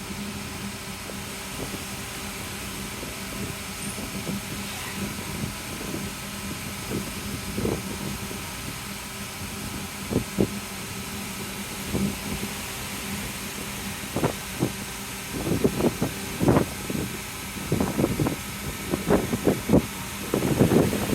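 A ferry's engines hum steadily and low, with wind buffeting the microphone in irregular gusts. The gusts are occasional at first and come thick and loud in the second half.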